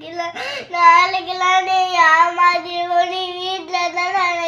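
A young child crying in one long, drawn-out wail held at nearly the same pitch, after a short sobbing breath about half a second in.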